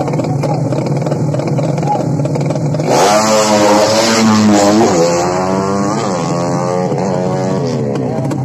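Drag-racing motorcycle engine running steadily, then about three seconds in it launches hard. It revs up in a series of rising sweeps, each dropping back at a gear change.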